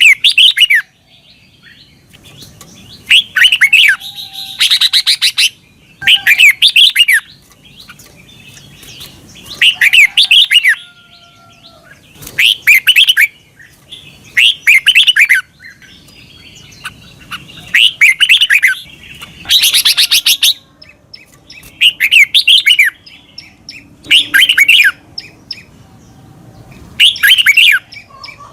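Red-whiskered bulbul singing: short, loud, warbling phrases, each about a second long, repeated every couple of seconds with brief pauses between.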